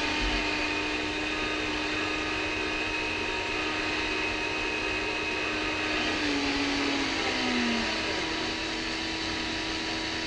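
Twin electric propeller-shaft motors of a Hobby Engine Southampton RC tug running at full speed with a steady whine. About six seconds in, one motor's pitch drops for a moment and then comes back up as the steering is mixed between the two shafts.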